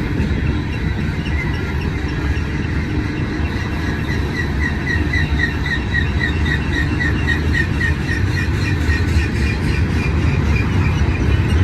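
Freight train rolling past with a steady low rumble of wheels on rail. In the middle a short high squeak repeats evenly, about three times a second, for several seconds.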